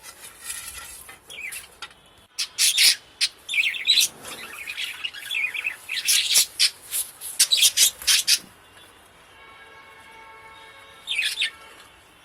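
Parrots chirping and calling in quick, sharp bursts, thickest through the middle, with one more short burst near the end.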